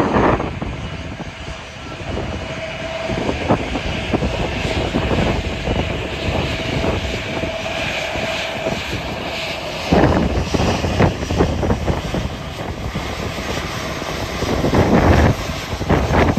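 Airliner engines running, with a steady whine that stops about halfway through, under heavy wind buffeting the microphone that comes in louder gusts near the end.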